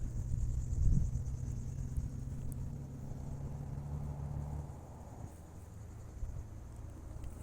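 Insects trilling faintly over a steady low hum and rumble; the hum fades out about two-thirds of the way through.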